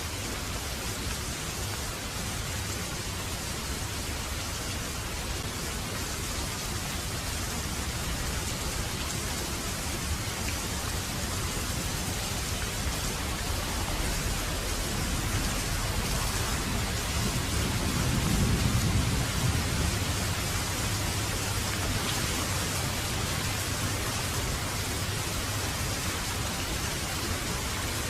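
Heavy rain falling in a steady hiss, with a low rumble of thunder swelling and fading about two-thirds of the way through.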